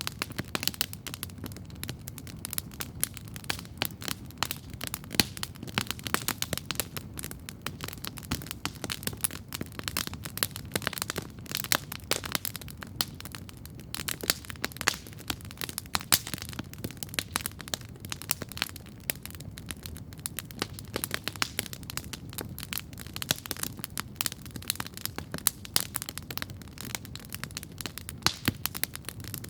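Wood campfire crackling steadily, with many quick sharp pops and snaps over a low steady rumble.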